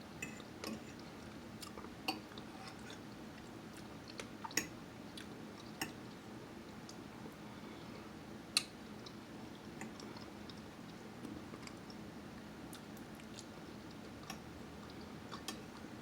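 A person chewing food close to the microphone, with scattered short, sharp mouth clicks and smacks; the sharpest comes a little past the middle.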